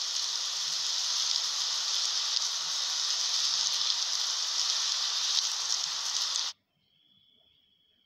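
Heavy rain falling, a steady hiss that cuts off suddenly about six and a half seconds in.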